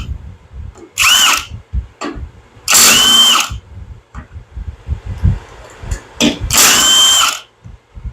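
A handheld power drill/driver spinning out 13 mm bolts, in three short spurts about a second long. Each spurt's motor whine climbs quickly and then holds steady. This is the removal of the cylinder-head bolts during an engine teardown.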